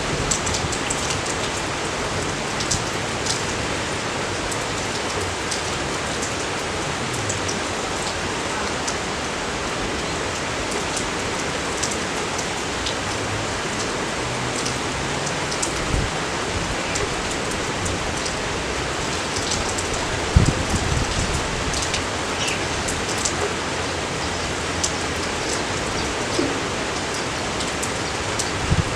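Steady rain falling, an even hiss with scattered sharp drop hits, and one brief low thump about two-thirds of the way through.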